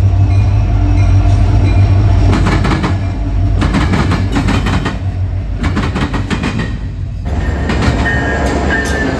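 Freight train rolling past with a steady low rumble, its wheels clicking over the rail joints in repeated groups of sharp knocks.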